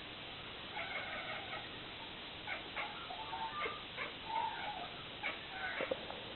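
A domestic cat chirping and chattering in short, broken, bird-like calls with a few clicks: the excited 'bird meow' a cat makes while watching birds.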